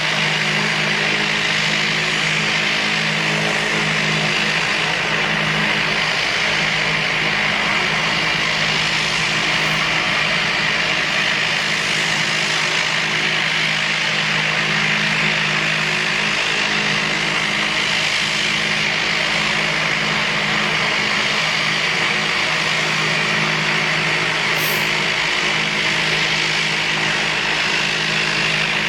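An engine running steadily at a constant speed: an even hum under a steady hiss, with no change in pitch or level.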